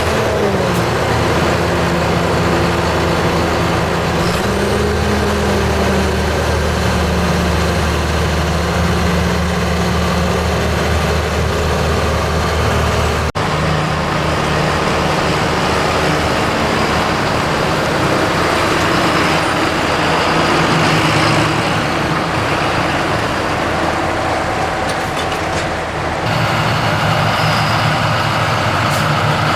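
Heavy diesel farm machinery engines running, the engine pitch rising and falling a little in the first part; the sound changes abruptly about halfway through and again near the end.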